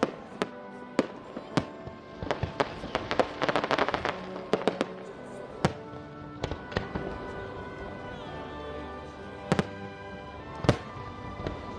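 Fireworks display going off: sharp bangs scattered throughout, with a dense stretch of crackling about three to four seconds in, over a music soundtrack.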